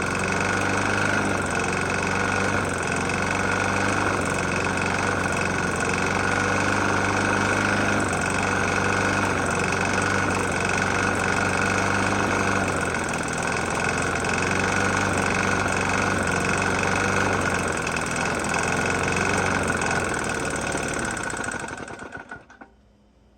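Briggs & Stratton E450 lawn mower engine running steadily with a heavy knock, then sputtering and dying about 22 seconds in as it runs out of fuel.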